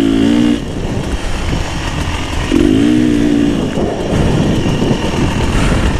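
Beta 300 RR two-stroke dirt bike engine running under way, its pitch rising twice: at the start and again around three seconds in. A steady rush of wind and tyre noise lies beneath it.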